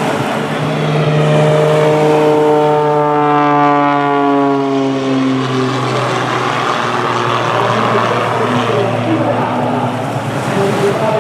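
A CAP 231 aerobatic plane's Lycoming six-cylinder engine and propeller droning as it flies past, the pitch sliding steadily down over several seconds. After about six seconds it gives way to a rougher, noisier engine sound that continues to the end.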